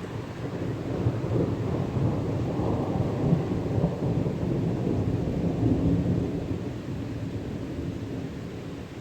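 Rolling thunder from the back side of a passing thunderstorm: a low rumble that swells over several seconds, then dies away.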